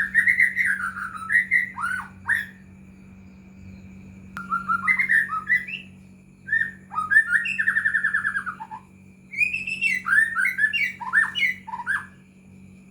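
White-rumped shama (murai batu) singing a loud, varied song of whistled notes, slurred glides and fast trills in four bursts with short pauses between them. A faint steady hum runs underneath.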